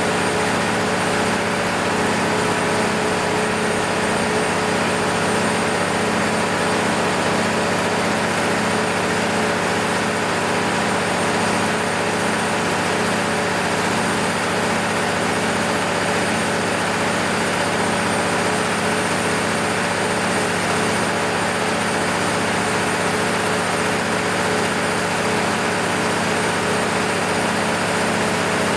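MEP-006A military generator's six-cylinder diesel engine running steadily at constant speed, with a steady whine above its even low beat.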